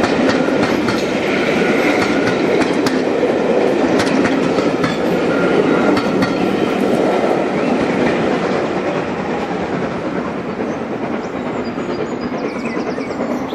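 Passenger coaches of a heritage train rolling past, their wheels clicking over the rail joints, the sound easing a little towards the end as the train draws away.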